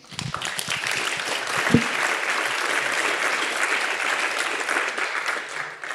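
Conference audience applauding, starting just after the talk ends and fading out near the end.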